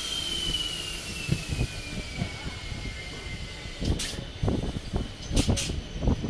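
Passenger train running on the rails, with a steady rumble and irregular low thumps of wheels over the track. A high squeal slides slowly down in pitch over the first three seconds, and sharp clatters come about four seconds in and twice more near the end.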